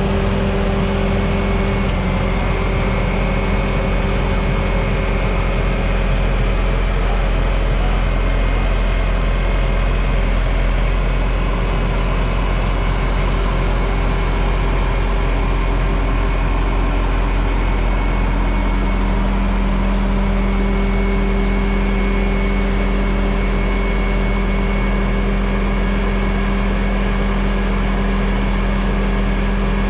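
Bobcat S650 skid steer's diesel engine running steadily at a constant speed, a loud even drone with a low hum.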